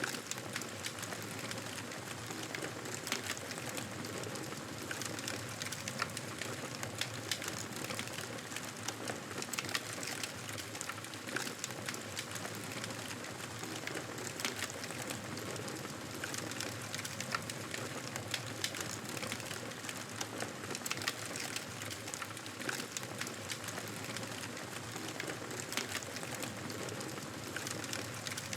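Wood fire crackling in a fireplace: frequent small irregular pops and snaps over a steady hiss.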